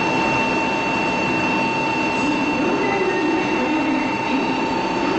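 Shinkansen bullet train running: a steady rumble and rush with two constant whining tones throughout.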